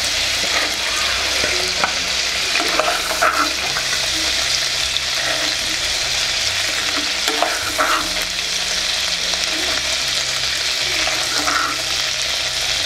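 Prawns frying in hot groundnut oil in a clay pot: a steady sizzle, with a few short clinks and scrapes of a steel spoon as the fried prawns are lifted out onto a steel plate.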